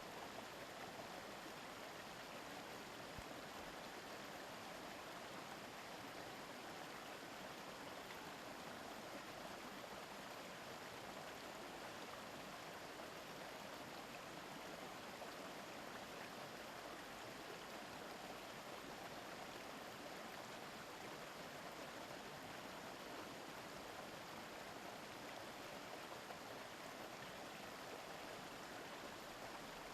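A river stream babbling over rocks, a steady, even rush of water.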